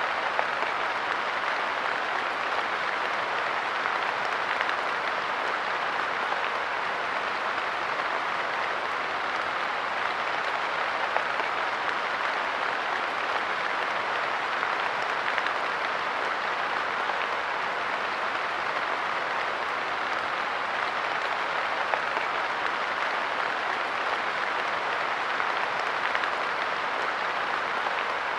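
Light rain pattering on a park bench, a steady dense patter with faint tiny ticks of individual drops.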